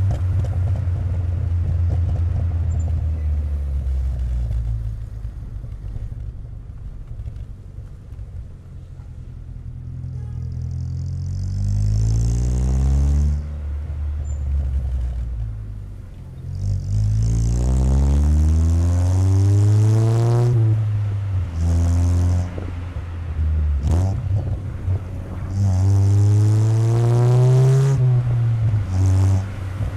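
Exhaust note of a 1997 Chevrolet Corsa Wind 1.0 MPFI four-cylinder through a JK muffler, heard right at the tailpipe while driving. The engine drones at low revs at first, then revs climb three times and drop off sharply as it shifts or lifts.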